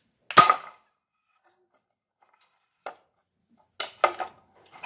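Homemade rubber-powered speargun fired: one sharp crack as its wire spear strikes and pierces a coconut shell about a third of a second in. A few small knocks and clicks near the end.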